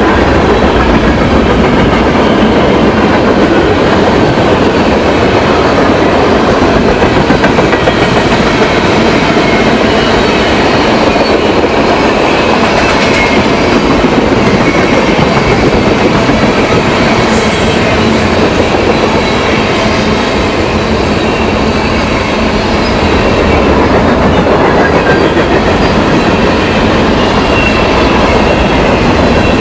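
Railroad cars rolling past close by in a loud, steady rumble and clatter of wheels on rail, with faint wheel squeal and a brief high squeal a little past halfway.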